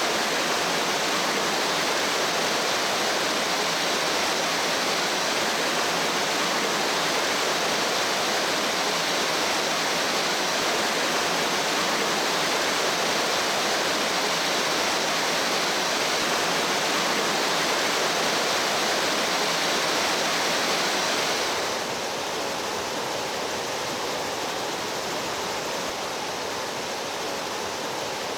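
Rushing water of a mountain stream, a steady, even wash of sound. About three quarters of the way through it drops a little and turns softer and less hissy.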